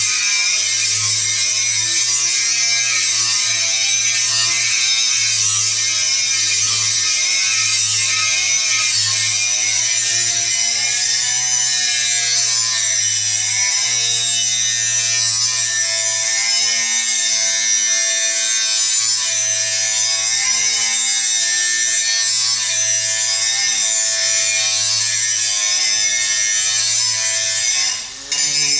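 Angle grinder grinding on steel: a steady, loud, high-pitched grinding with the motor's whine wavering slightly in pitch. Near the end it drops out for a split second, then resumes.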